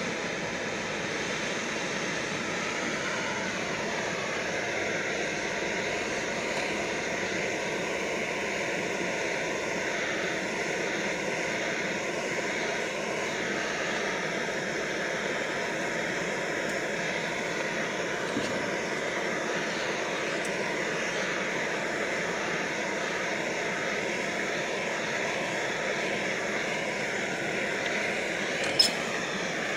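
Backpacking canister gas stove burner running with a steady roar under the cup. A single sharp click comes near the end.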